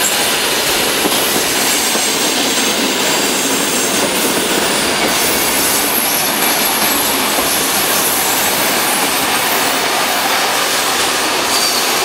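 Vintage passenger carriages of a steam-hauled train rolling past close by. A loud, steady rumble and rush of steel wheels on the rails, with thin high wheel squeals now and then.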